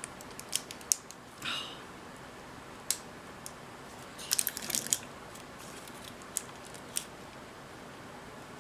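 Scattered small clicks and taps from hands and a small tool working inside a Sony Betacam SP camera's tape mechanism, with a quick run of clicks about four to five seconds in and a short rustle near the start.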